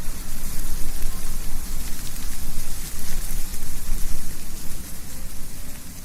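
Wind blowing through trees with leaves rustling, gusting so the sound swells and eases, with a rumble of wind underneath.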